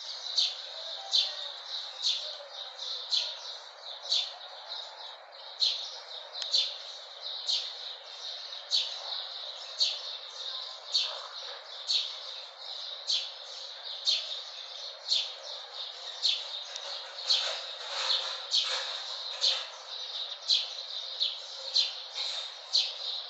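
Birds chirping: short, high chirps repeated about twice a second, over a steady background hiss.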